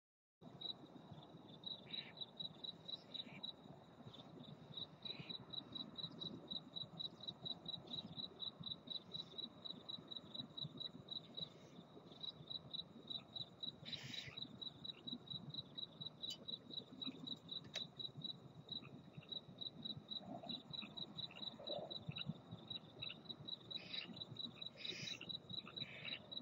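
A cricket chirping steadily and evenly, about three to four high chirps a second, with a few faint short calls scattered over a low background hiss.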